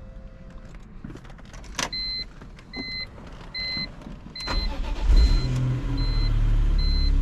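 Key clicks, then a car warning chime beeping about once every 0.8 s. About four and a half seconds in, the 2004 BMW M3 E46's straight-six engine cranks, catches and settles into a steady idle under the chime.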